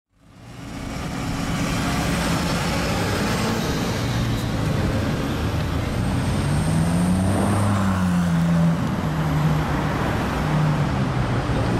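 Car engines and street traffic, fading in; about halfway through, one engine revs up and back down.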